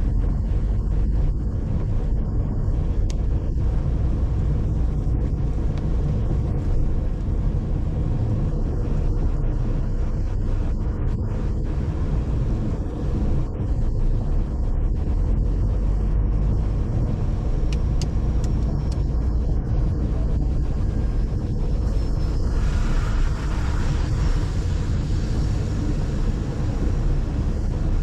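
A car driving: steady low road and engine rumble, with a brief rise in hiss about three-quarters of the way through.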